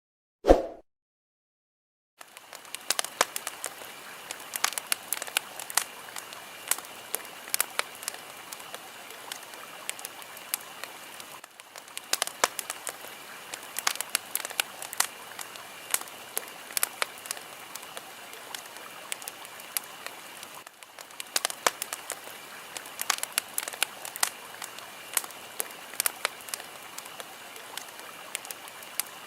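Wood fire crackling, with dense sharp pops and snaps over a steady hiss. A short dull thud about half a second in comes before the crackling, which starts about two seconds in, and the crackle dips briefly twice.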